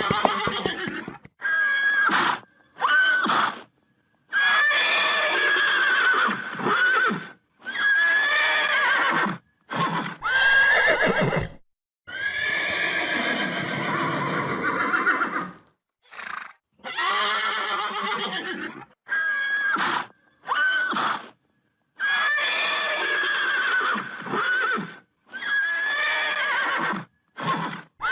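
A horse neighing over and over, a string of whinnies each a second or two long with short pauses between, and a breathy, noisy blow about ten seconds in.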